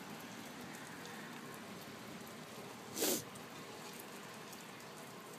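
Faint steady hiss, broken about three seconds in by one short, sharp noisy burst.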